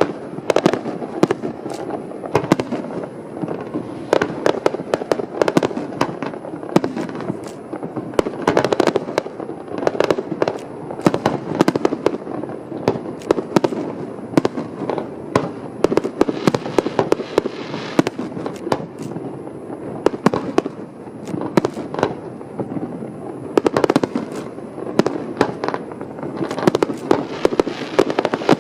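Aerial fireworks bursting continuously: a dense, unbroken run of booms with many sharp cracks and crackles layered over them.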